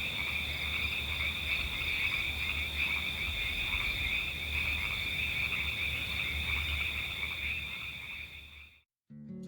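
A dense chorus of frogs calling steadily, a constant high-pitched trilling, fading out near the end. Acoustic guitar music starts just as it ends.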